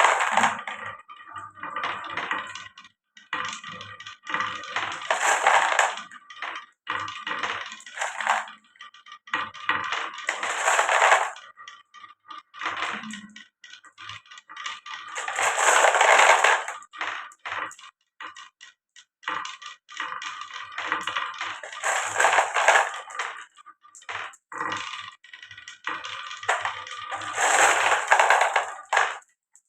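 Marbles rolling and clattering down a wooden marble run: dense runs of small hard clicks that swell and die away in waves about every five to six seconds.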